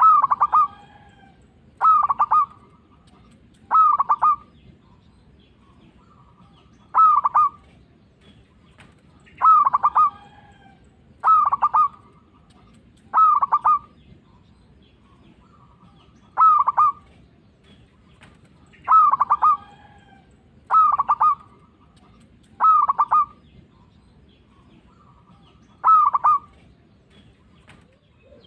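Zebra dove cooing: about a dozen short phrases, each a quick run of notes about half a second long, repeated every two seconds or so with a few longer pauses.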